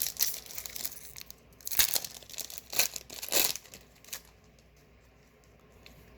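Foil Magic: The Gathering booster pack wrapper being torn and crinkled by hand, a run of short rustling bursts that stops after about four seconds.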